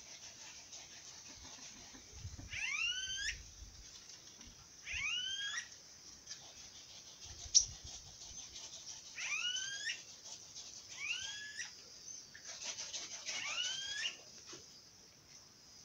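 A bird calling over and over, each call a quick rising whistle, about six calls a couple of seconds apart, over a steady high hiss. A single sharp click sounds about halfway through.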